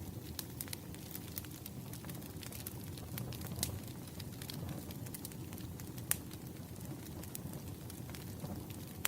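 Wood fire crackling: a steady low rumble of burning logs with irregular sharp pops and snaps, two louder snaps about three and a half and six seconds in.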